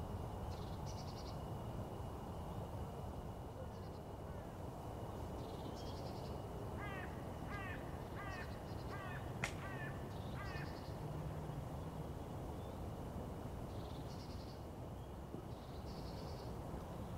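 Birds calling over a steady low background noise: a run of about seven harsh, evenly repeated calls in the middle, with brief high chirps coming and going and a single sharp click among the calls.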